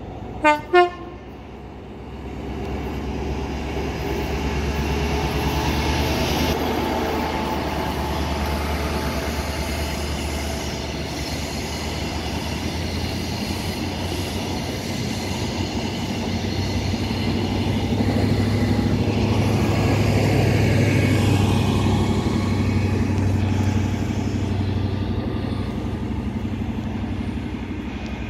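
High Speed Train with class 43 diesel power cars sounding two short horn blasts just under a second in, then running through the station: a deep diesel engine rumble and the coaches' wheel and rail noise. A second swell of engine sound comes about two-thirds of the way through as the rear power car passes, then it eases off as the train draws away.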